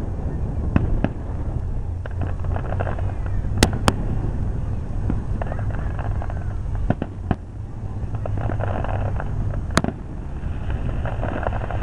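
Aerial fireworks shells bursting: sharp bangs at uneven intervals, with a crackle of stars between them. The loudest are two bangs in quick succession about three and a half seconds in, and another near the end.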